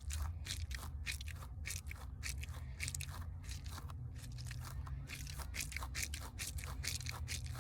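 A squishy spiked gel fidget toy squeezed and kneaded by hand close to the microphone: an irregular run of crackly, squelching clicks, several a second.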